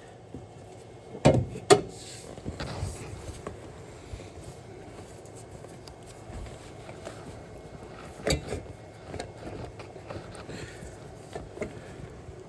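A few sharp knocks and clunks, two close together about a second in and another near eight seconds, over a low steady background, typical of parts being handled and set down while working on a truck.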